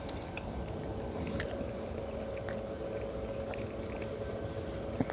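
Someone chewing a bite of a frozen Bomb Pop ice pop with the mouth closed, a few small crunchy clicks scattered through. Under it runs a steady low mechanical hum with a faint constant tone.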